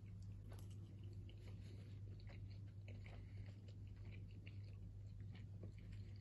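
Faint chewing of soft pancakes, with small scattered mouth clicks, over a steady low hum.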